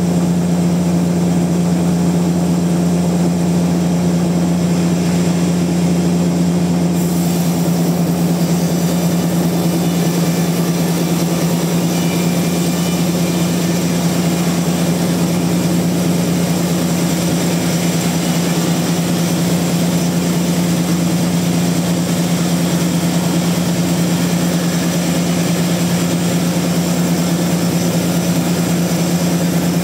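Sawmill machinery running steadily, a constant loud low motor hum with no change in speed; a brighter hiss joins about seven seconds in.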